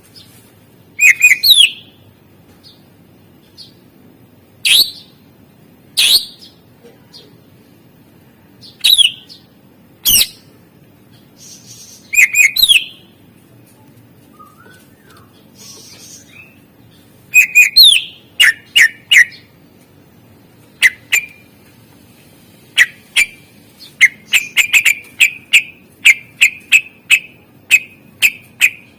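A cucak ijo (green leafbird) singing loud, sharp whistled phrases with quick sweeping notes, in bursts separated by short pauses. Near the end it breaks into a fast run of repeated chirps, about two to three a second.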